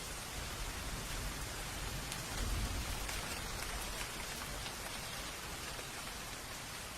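Steady rain falling, an even hiss with individual drops ticking now and then, and a brief low rumble about two and a half seconds in.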